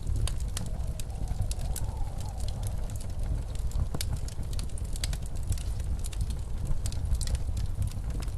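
Fireplace crackling with irregular sharp pops, over the steady low rumble of snowstorm wind.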